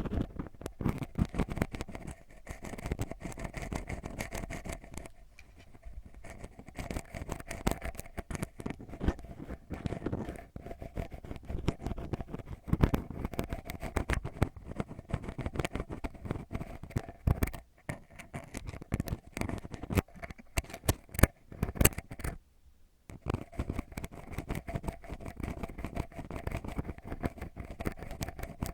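Ear pick scratching and rubbing deep inside a binaural microphone's ear, the ASMR 'eardrum scratch': a dense, irregular crackle of close scrapes and clicks with a couple of short pauses.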